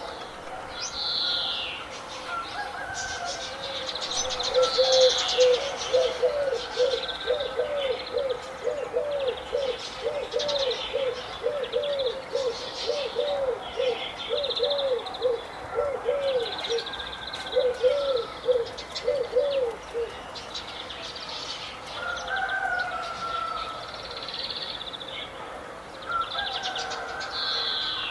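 Several birds calling together: high chirps throughout, while one bird gives a long run of short, low, repeated notes about twice a second for roughly fifteen seconds before stopping.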